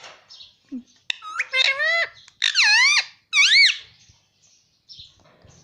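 Indian ringneck parrot giving three loud, wavering, high-pitched calls in quick succession, starting about a second in.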